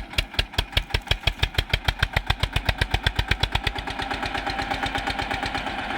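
Tractor diesel engine revving up under load, its exhaust beats quickening until they blend into a steady drone about four seconds in.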